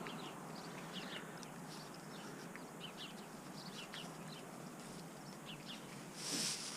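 Faint wild birdsong: scattered short chirps throughout, with a brief rustle near the end.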